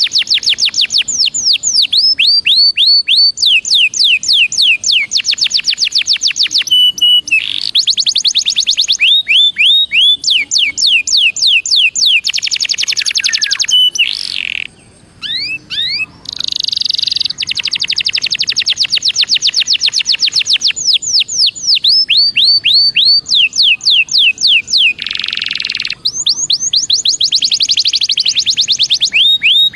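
Belgian canary singing: long trills of rapid down-slurred notes, roughly ten a second, one phrase running into the next, with a short break about halfway through.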